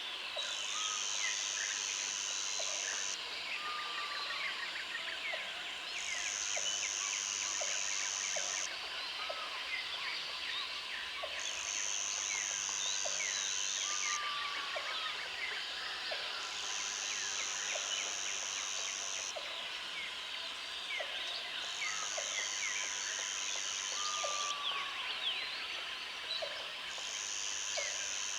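Many small birds chirping over one another, with a high-pitched buzz that sounds for about three seconds and pauses about as long, over and over. A short falling whistle comes in about every ten seconds.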